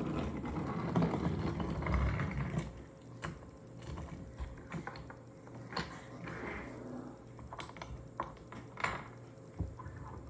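Toy train rolling on wooden track: a low rumble for the first couple of seconds, then scattered light clicks and knocks.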